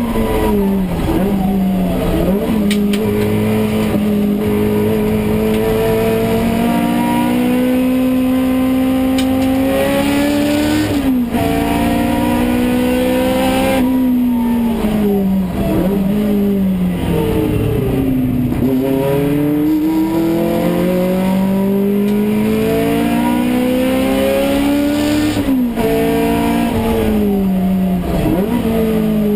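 Toyota AE86 race car's four-cylinder engine, heard from inside the cabin, revving hard under race acceleration. Its pitch climbs steadily, then drops sharply at gear changes and under braking for corners, several times over.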